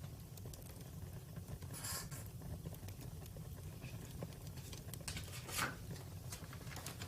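Wood fire crackling, with a steady low rumble under scattered sharp pops; the loudest crackles come about two seconds in and again about five and a half seconds in.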